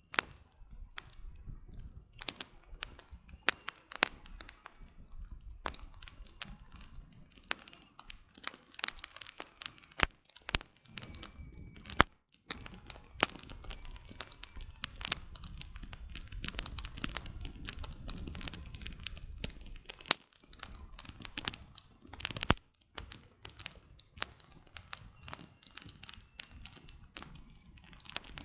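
Campfire of burning wood crackling: a dense, irregular stream of sharp pops and snaps over the low rush of the flames.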